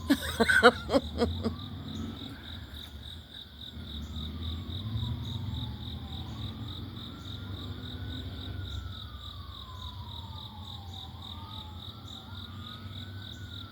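A distant emergency-vehicle siren wailing in slow rises and falls, over a steady pulsing chirr of insects and a low hum of traffic. A few loud short sounds come in the first second or so.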